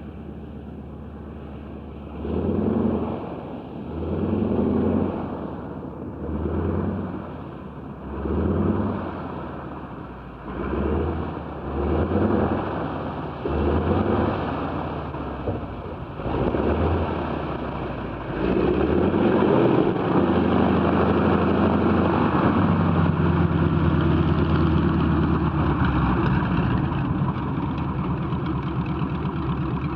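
North American AT-6 Texan's Pratt & Whitney R-1340 Wasp radial engine running as the plane taxis in, the throttle opened in short surges about every two seconds. For the last dozen seconds it holds at a steady, higher power.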